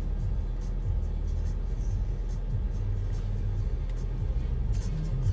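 Steady low rumble of a car's engine and road noise heard from inside the cabin, with faint music underneath.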